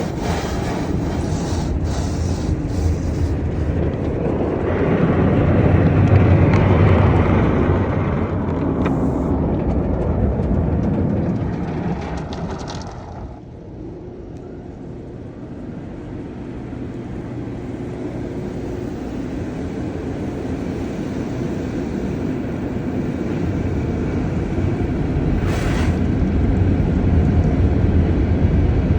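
Automatic car wash running: a steady rush of machinery and spraying water. It swells a few seconds in, drops off sharply about halfway through, then slowly builds again.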